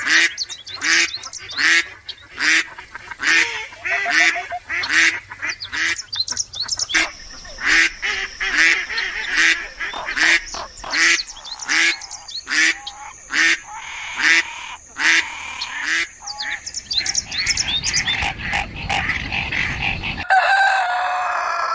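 Ducks quacking over and over in short calls, about two a second. After about 16 s the quacks thin out under a steady rushing noise, and about 20 s in the sound cuts abruptly to a different one.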